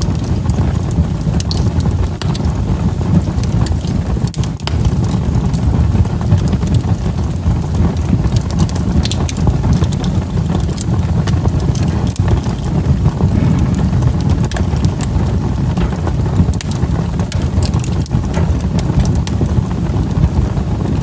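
Wood fire burning in a fireplace: a steady low rush of flames with frequent small crackles and pops scattered throughout.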